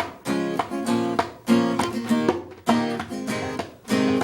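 Acoustic guitar strumming chords in a steady rhythm, each strum ringing out and fading before the next.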